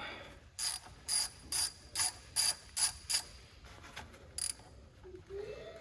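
Ratchet wrench clicking in a run of quick back-swings, about two a second, then one more swing a little later, as it breaks loose the oil pan drain plug.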